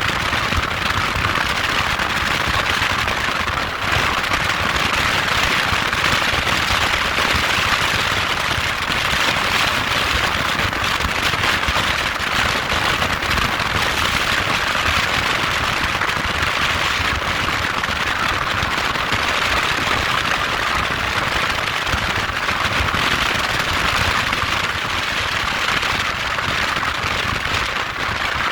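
Moped engine running steadily, a loud, even rattling noise without any clear change in pitch.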